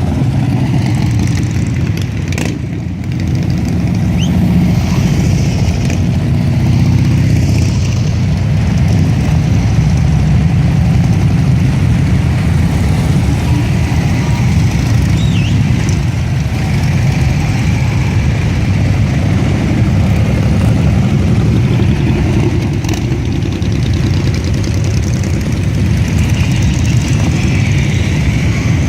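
Engines of a large group of motorcycles running together in a loud, steady rumble.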